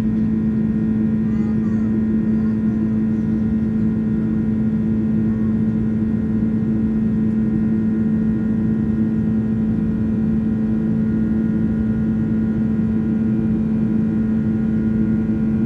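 Steady cabin drone of a Boeing 767-300ER airliner in the climb: a constant low hum with several steady tones over an even rush of air and engine noise.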